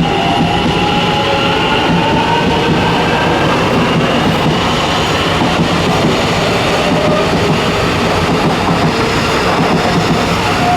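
Taiwan Railway electric multiple unit (set EMU946) moving along the station platform: a loud, steady rumble of wheels and running gear, with a faint whine that drifts in pitch.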